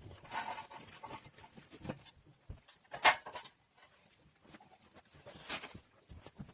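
Scattered small knocks and clicks of things being handled, with one sharp click about three seconds in.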